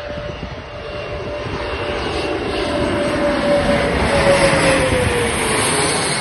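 CRJ-200 regional jet's twin turbofan engines passing close by. The noise swells to a peak about four seconds in, and a steady whine drops in pitch as the jet goes past, then the noise eases off.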